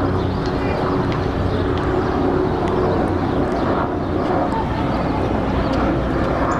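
Steady outdoor rumble of vehicle traffic.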